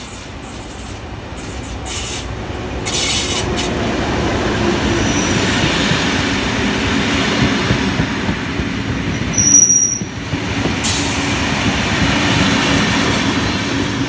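Heritage passenger train hauled by 44 class diesel locomotive 4490 passing close by. The locomotive's engine grows louder over the first few seconds as it comes through, then the carriages run past with steady wheel-on-rail noise. There are brief high squeals, the loudest about nine and a half seconds in.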